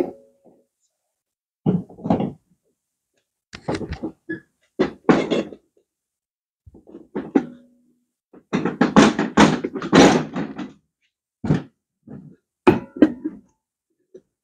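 Irregular thunks and knocks of motorcycle front-wheel parts being handled during cleaning, with a longer run of scraping and clattering a little past the middle.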